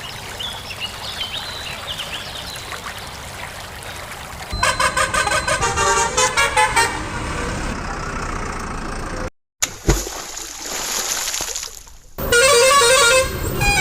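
Vehicle horn sound effects honking in quick repeated toots, in two bursts. Between them runs a steady rushing noise, broken by a brief drop to silence and a thud a little after nine seconds in.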